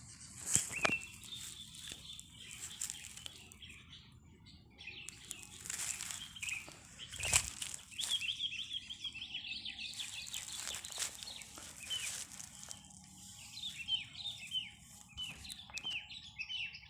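Sooty-headed bulbuls (kutilang) chirping in quick, repeated bubbly notes, with a few sharp rustling thumps, the loudest about seven seconds in.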